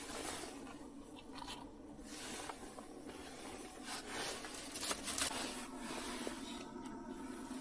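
Rubbing, rustling and scraping of things being handled in a small enclosed space, with several short sharper strokes around the middle, over a faint steady hum.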